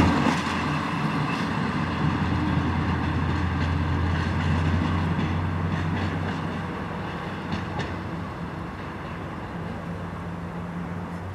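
DR1A diesel multiple unit moving away, its steady low diesel engine hum and wheel noise fading gradually.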